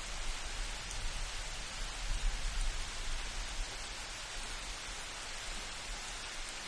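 Steady hiss of light rain, with a low rumble of distant thunder swelling and fading away over the first few seconds.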